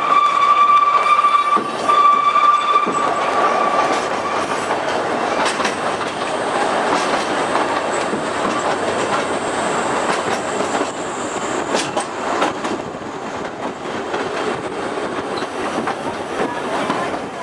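Oigawa Railway trolley train's wheels squealing in a steady high tone for the first few seconds, fading out about four seconds in. After that the carriage runs on with a steady rumble and wheel clatter on the rails, with a few sharp clicks past the middle, heard from aboard.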